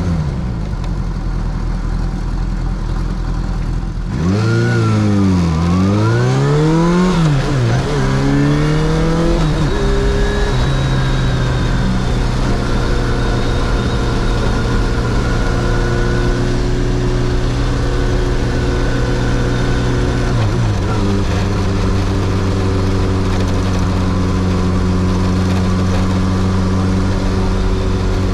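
Kawasaki Zephyr 750 air-cooled inline-four running, heard from the rider's seat. It runs low and steady for about four seconds. Then the revs rise and drop several times as it pulls away and shifts up through the gears. After that it holds a steady cruising note, with a brief dip in revs about 20 seconds in.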